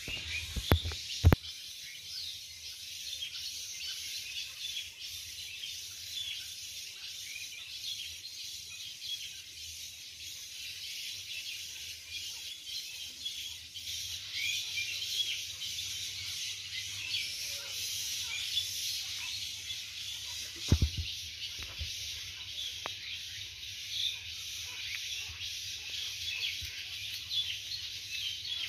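Small birds chirping over a steady high hiss of outdoor background, with two sharp knocks about a second in and another about two-thirds of the way through.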